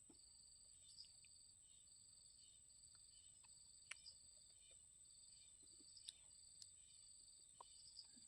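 Near silence with faint insect chirping: a steady high trill and a lower chirp that repeats in regular pulses, with a few faint clicks.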